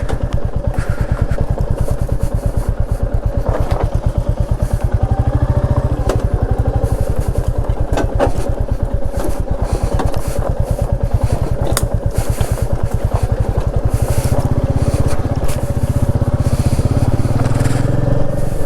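Vehicle engine running steadily under way on a rough road, with an even, rapid pulsing beat and a few sharp knocks. About two thirds of the way through the engine grows louder and heavier.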